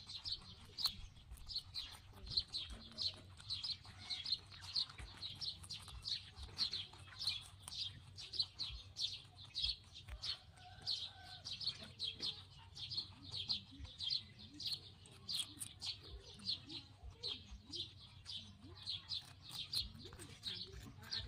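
A bird chirping over and over, short high chirps about two to three a second, with faint crunching of rabbits chewing cucumber.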